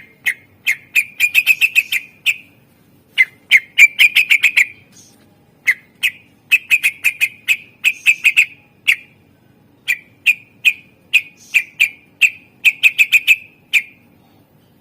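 Green leafbird (cucak ijo) singing: short, sharp notes on nearly one pitch, fired in fast runs of several notes with brief pauses between the runs.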